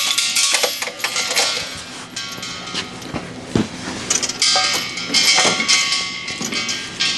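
Steel gas cylinder and metal welding cart clanking together as the cylinder is set in place, with repeated metallic knocks and ringing.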